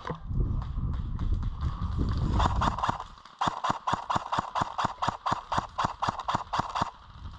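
Footsteps of a player on the move, with a low rumble of wind and handling on a body-worn microphone at first. After about three seconds the steps settle into an even, crisp stride of roughly three or four a second.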